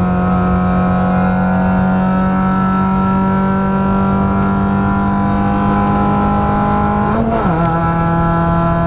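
Fiat Punto's engine heard from inside the cabin, running at steady revs as a constant drone. About seven seconds in, the pitch lifts briefly, then drops and settles lower.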